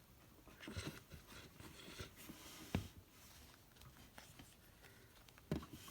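Quiet room tone with a few faint taps and rustles, and one sharper click near the middle.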